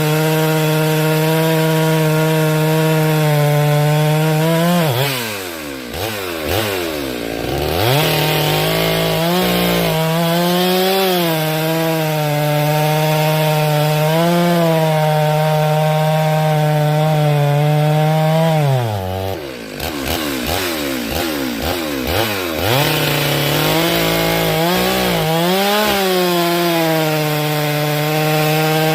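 Two-stroke chainsaw running at high revs, cutting firewood. Twice its pitch drops sharply as the throttle is let off, then it revs back up.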